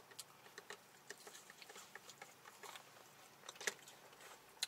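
Quiet close-up chewing of fried chicken, with many small wet mouth clicks and lip smacks and a couple of sharper smacks near the end.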